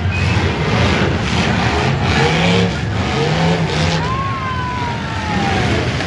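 V8 engines of demolition derby cars running and revving together in a loud, dense mix.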